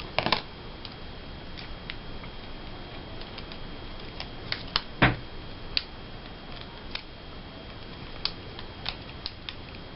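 Scattered small clicks and taps of a dull razor blade picking at a sticker to lift it from its clear backing, stubbornly stuck; the sharpest tick comes about five seconds in.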